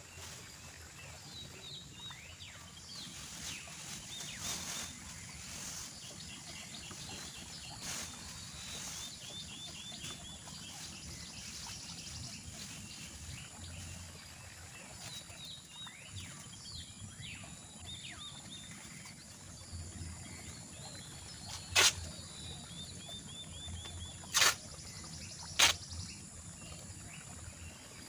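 Outdoor forest ambience: birds calling in quick strings of repeated chirps over a steady high-pitched hum. Three sharp knocks ring out in the last third, louder than everything else.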